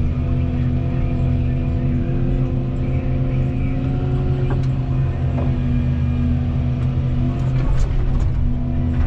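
Volvo 235EL crawler excavator's diesel engine running steadily under load with its hydraulics working, and a few sharp knocks and cracks now and then from the attachment at work.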